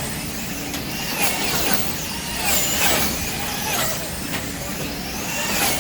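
Electric wing cars racing around the track, their motors whining in high pitches that glide down and back up again and again, every second or so, as the cars slow into turns and speed up out of them.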